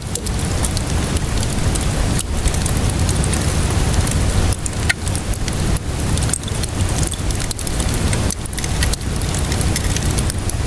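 Steady rainfall with a low rumble beneath it, and frequent small crackles and pops of a wood fire scattered through it.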